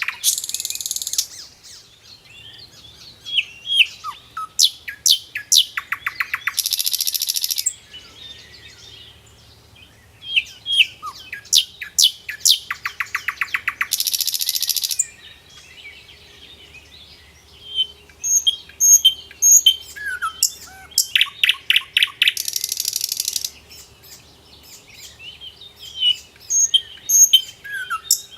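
Songbirds singing: a repeated phrase of quick, sharp chirps that ends in a fast trill and a buzzy note, coming back about every seven seconds, with thinner high calls in between.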